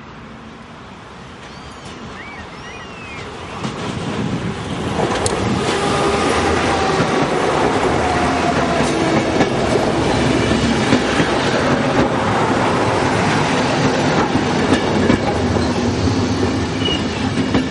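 Swedish X11-type commuter electric multiple unit approaching and passing close by: quiet at first, its wheels-on-rails noise builds from about four seconds in to a loud, steady rush with a faint whine.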